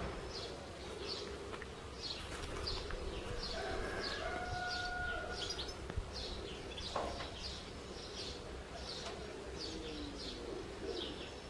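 Small birds chirping over and over, short high chirps about one to two a second, over a steady low outdoor background.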